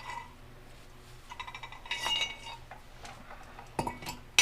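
Light metallic clinks and rattles from a loosened inner tie rod and its removal tool as the tie rod is spun out of the steering rack by hand, with a sharper metal clank near the end.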